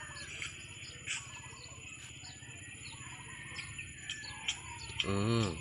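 Faint, scattered chirping of small birds in the background. A short vocal sound from a person comes about five seconds in.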